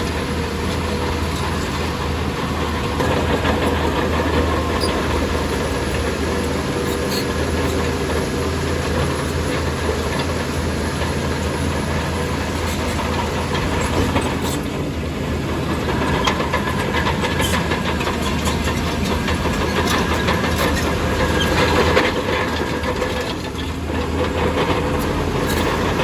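Heavy diesel engine of a crawler bulldozer running steadily under load, with a continuous rattling clatter from its steel tracks.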